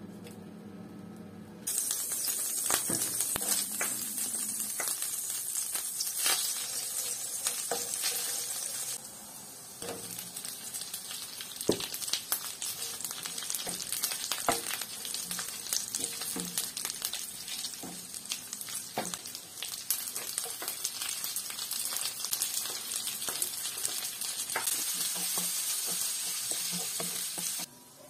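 Butter, chicken pieces and chopped garlic sizzling in a hot nonstick frying pan. The sizzle starts about two seconds in and dips briefly around ten seconds. A wooden spatula clicks and scrapes against the pan throughout as the food is stirred.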